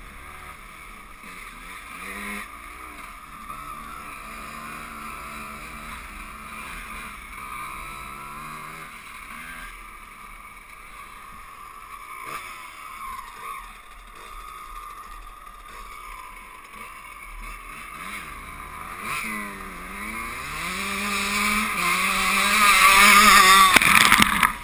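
Two-stroke 125 cc enduro motorcycle engine being ridden, its pitch rising and falling again and again with the throttle. It builds to a louder, higher rev near the end, then cuts off suddenly.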